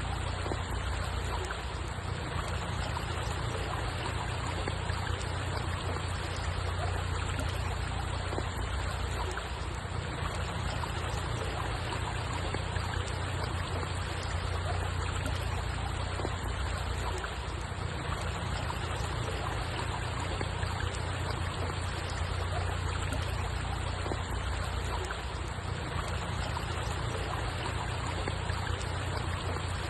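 Steady running water, an even rushing with a low rumble underneath and no breaks or distinct splashes.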